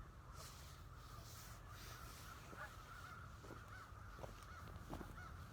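Crows cawing faintly in the distance, a string of short calls repeated every second or so, over a low steady rumble.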